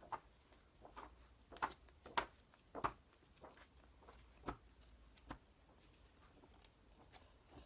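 Magazine pages in a ring binder being handled and turned: a scattering of short, soft paper rustles and taps, busiest in the first three seconds.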